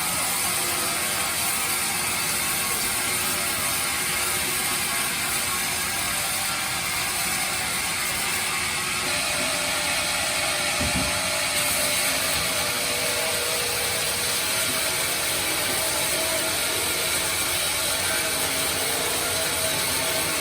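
Sawmill bandsaw running steadily through teak, a loud, even mechanical noise with a short knock about eleven seconds in.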